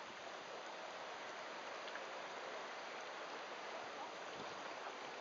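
Steady rushing hiss of sea water, an even wash with no distinct splashes or paddle strokes.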